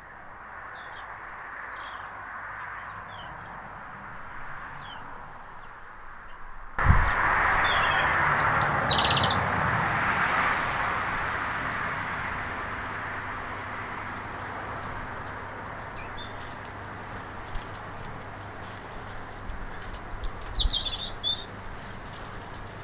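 Small garden birds chirping in short, scattered high calls over a steady outdoor rush, which gets suddenly louder about a third of the way through.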